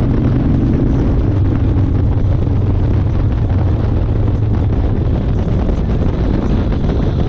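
1992 Harley-Davidson Fat Boy's Evolution V-twin engine running steadily while riding, with wind buffeting the microphone.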